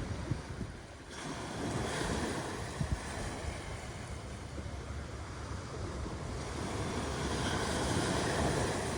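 Ocean surf washing onto a beach: a wave surges in about a second in and another swells up near the end, with low wind rumble on the microphone.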